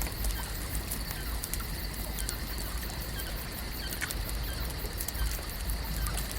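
Lakeside ambience: a steady wash of water with many small irregular ticks and faint high chirps of birds.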